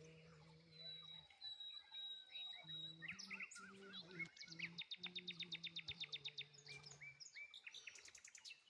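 Wild birds chirping and singing: a thin high whistle held for over a second, then a fast even trill in the middle, among scattered short calls. A low steady hum stops and starts underneath.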